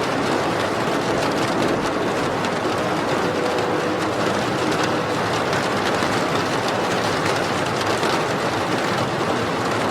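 Steady heavy rain, a constant even hiss of falling water with no music over it.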